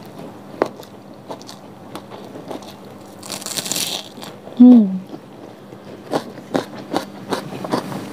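Close-up mouth sounds of someone chewing a mouthful of fried tiwul rice, with moist crunches and clicks that come more often in the last couple of seconds. Halfway through there is a short breathy hiss, then a brief hummed "mm", which is the loudest sound.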